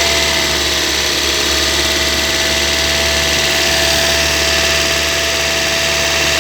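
2016 Toyota Yaris engine running with a steady high whine over it, the strange noise first taken for the VVT-i gear and traced to the alternator. The whine climbs in pitch just before and then holds level.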